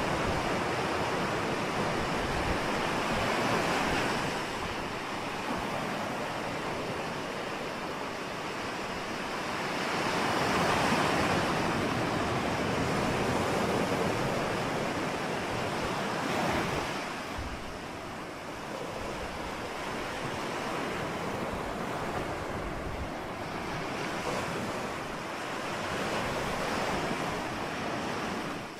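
Ocean surf: waves breaking and washing in, a continuous rushing that swells and eases over several seconds, loudest about ten seconds in.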